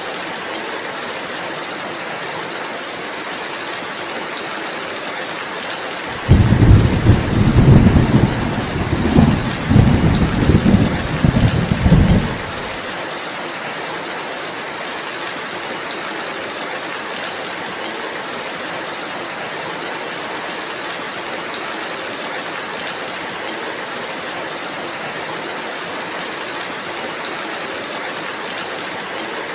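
Steady rain falling, an even hiss. About six seconds in, a loud low rumble of thunder surges several times for about six seconds, then stops abruptly.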